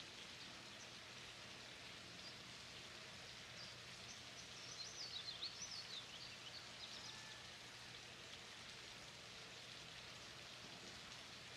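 Faint outdoor ambience, a steady soft hiss, with a small bird chirping in quick rising and falling notes around the middle.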